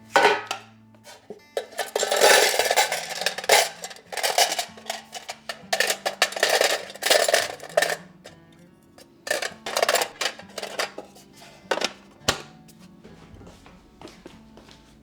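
Soft background music with kitchen handling sounds over it: several loud bursts of rustling noise in the first half, then a few scattered clicks and knocks.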